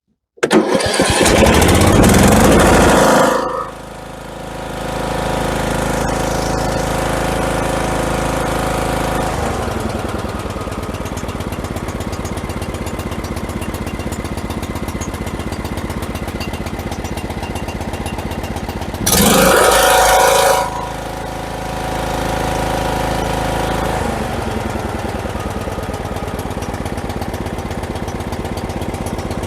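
Freshly rebuilt Briggs & Stratton 18 hp single-cylinder lawn tractor engine, with new piston, rings and rod and still breaking in, starting and running loud and high for about three seconds, then dropping to a steady run. About two-thirds of the way through it revs up briefly with a rising pitch, then settles back to a steady run.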